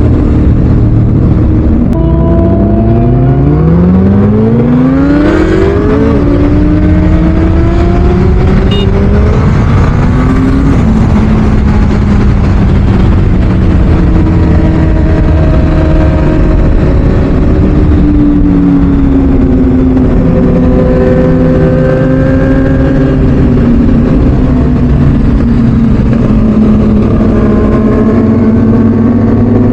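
Sport motorcycle engine under way on the road, revving hard with its pitch climbing steeply and then dropping at a gear change, then rising and falling with the throttle.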